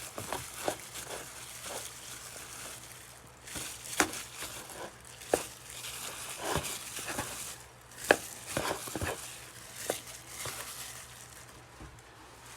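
Chicken strips being tossed and coated in dry breading: irregular soft rustling and light knocks against the bowl, over a faint steady low hum.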